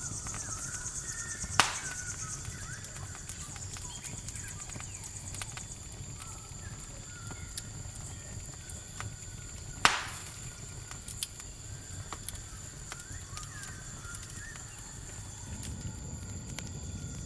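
Campfire crackling with fine, irregular clicks and two sharp pops, one about two seconds in and one near the middle, over a steady high chirring of crickets. Faint short chirping calls come and go in the background.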